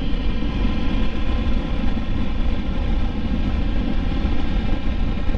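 Triumph Tiger 1200 Rally Explorer's three-cylinder engine running at a steady cruising speed, under a heavy low rumble of wind on the microphone.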